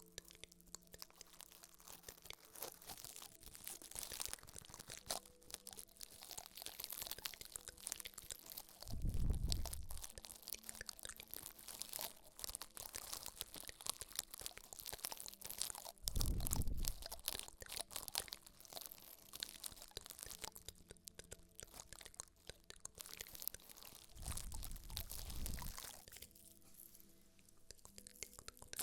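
Close-miked ASMR crackling and crinkling, a steady stream of fine crisp clicks, broken by three low rumbling thuds about nine, sixteen and twenty-five seconds in.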